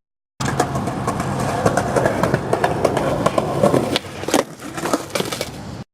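Hard small wheels rolling over pavement, a steady grinding rumble with clicks and clacks, fading for a moment past the middle before picking up again.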